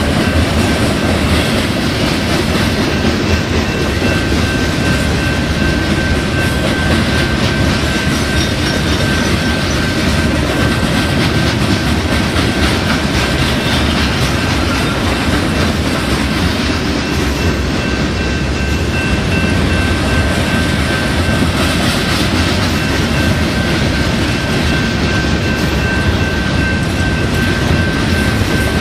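Freight train of hooded steel-coil cars rolling past at close range: a steady rumble and clatter of wheels on the rails, with a thin steady high-pitched tone running through it.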